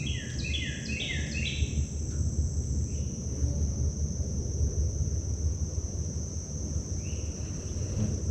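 Steady high-pitched insect chorus over a constant low rumble, with a bird calling a quick run of short falling notes in the first two seconds and once more briefly near the end.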